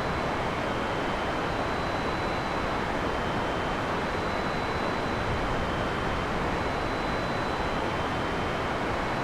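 Heavy rain pouring steadily in a forest, an even dense hiss with no thunder clap, under two faint steady high tones.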